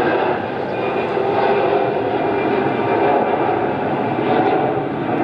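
Jet airliner's engines at takeoff power, a steady loud rush of noise.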